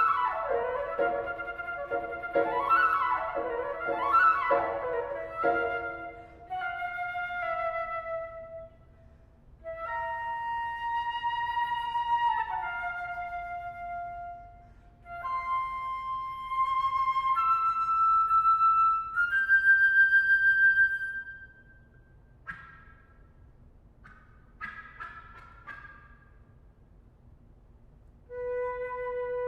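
Solo flute playing: a rapid flurry of notes, then long held notes with short pauses, some sliding down in pitch. Near the end come a few short separate notes, then another sustained tone.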